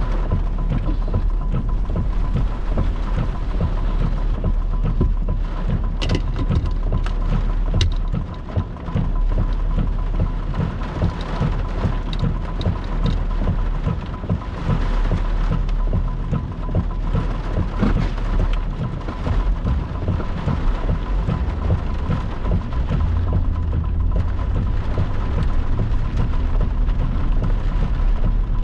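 Heavy rain and gusting wind under a rotating thunderstorm, with a continuous low rumble and a few sharp ticks of drops or small hail striking.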